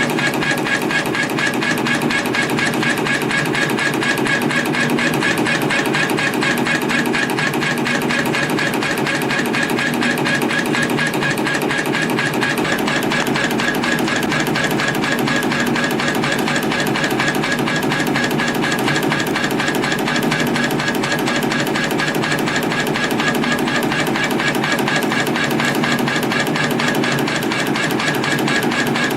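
CNC compression-spring coiling machine (CF-310) running steadily while coiling 0.4 mm wire into springs at about 260 a minute. It makes a fast, even mechanical clatter of rapidly repeating strokes.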